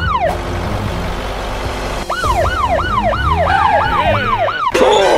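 Police siren in a fast yelp, its pitch swooping up and down about three times a second. It sounds in two spells with a rushing hiss between them, and a sudden sharp sound comes near the end.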